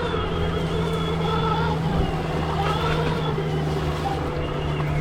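Stark Varg EX electric dirt bike under way: the electric motor's whine, several tones wavering slightly in pitch with the throttle, over a steady low rumble of drivetrain and ground noise.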